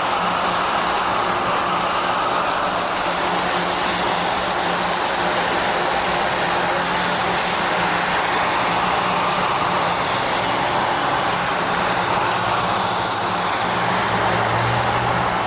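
Steady, loud running noise of a vehicle in motion, with a low, even hum under it.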